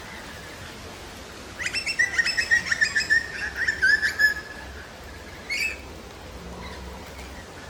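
A bird calling: a quick run of chirping notes lasting nearly three seconds, then one short call about two seconds later.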